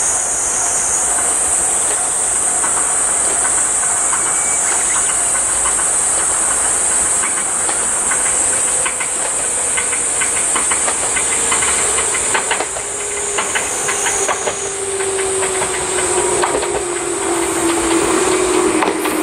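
Tobu 634-series Skytree Train electric train pulling into a station: wheels clicking over rail joints as it comes near, and a slowly falling motor whine in the second half as it slows, over a steady high-pitched hiss.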